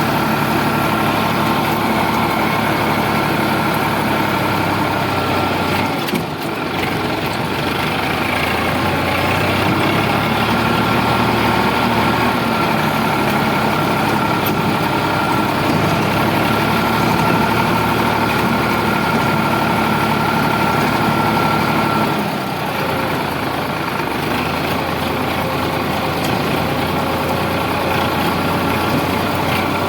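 Sonalika DI 745 tractor's diesel engine running steadily. The engine note dips briefly about six seconds in, and again about 22 seconds in, after which it settles at a lower pitch.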